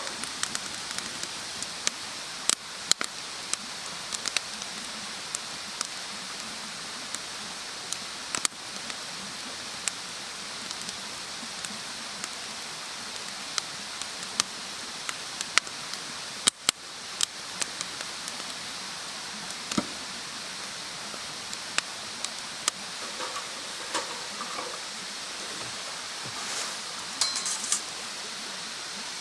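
Wood bonfire crackling: a steady hiss with frequent irregular sharp pops and snaps.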